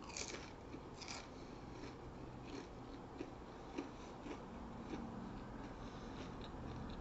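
Crunchy fried onion rings being bitten and chewed close to the microphone: two crisp crunches about a second apart, then quieter crackles and clicks of chewing.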